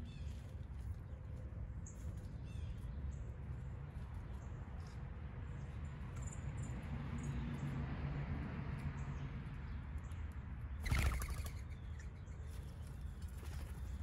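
Wild backyard birds: scattered short, high chirps over a steady low rumble, with one louder, brief rustling burst about eleven seconds in, like wings flapping as a bird comes or goes.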